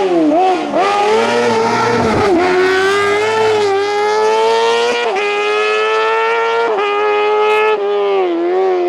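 Hillclimb racing car's engine at full throttle, its pitch climbing steadily through each gear and dropping sharply at the gear changes, about two, five and seven seconds in.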